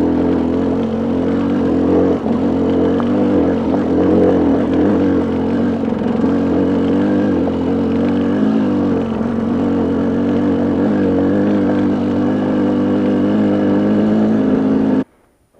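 Ram pickup's engine running at idle speed in four-wheel drive as the truck crawls up a steep, rocky track, holding a steady low note with small wavers as the load changes. It cuts off suddenly near the end.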